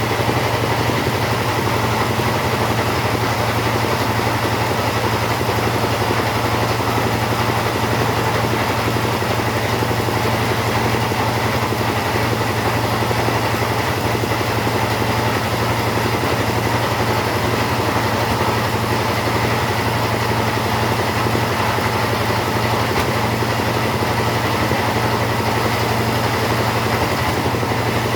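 Two-stroke chainsaw running steadily at an even pitch, sawing a teak log into door stock.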